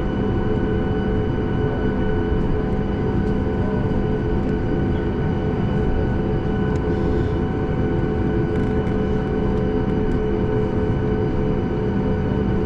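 Steady cabin noise of a Boeing 737 MAX 8 in flight or on the ground under power: its CFM LEAP-1B engines running with a constant low rush and several steady humming tones, unchanging throughout.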